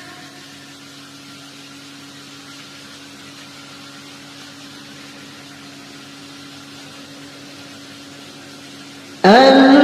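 A steady, faint low hum with hiss and no music. About nine seconds in, music with singing starts suddenly.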